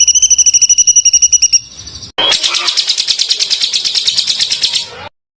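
A songbird singing rapid-fire 'tembakan' bursts, about a dozen notes a second: first a clear pitched trill, then, after a short break, a rough, noisier rattling run that cuts off abruptly near the end.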